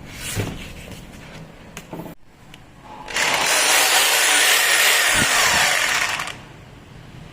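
Makita M8701 rotary hammer switched on and run for about three seconds, starting about three seconds in and cutting off, with a few clicks and knocks of handling before it.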